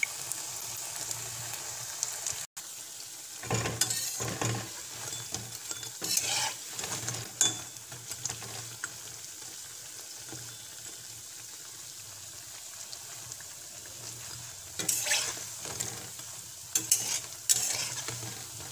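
Puffed-rice pakoras sizzling in hot oil in a kadai, a steady frying hiss. A metal spatula scrapes and knocks against the pan in a few short clusters as the fritters are turned.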